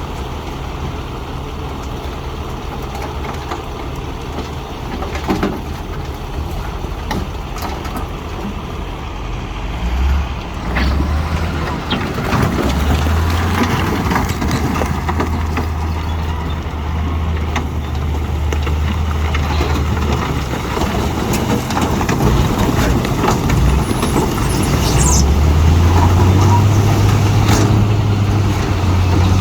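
Heavy earthmoving machinery working: a deep diesel engine note comes in about ten seconds in and rises in pitch near the end as it is worked harder, with scattered knocks and clanks over it.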